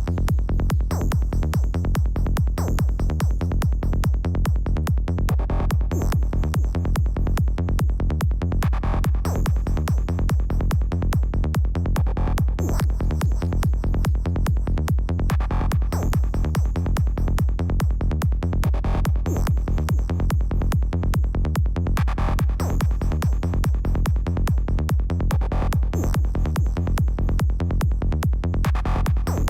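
Psytrance loop: a fast, steady kick and rolling bass with a synth patch made in Serum, meant as the classic psytrance sound. A brighter synth phrase comes back about every three seconds.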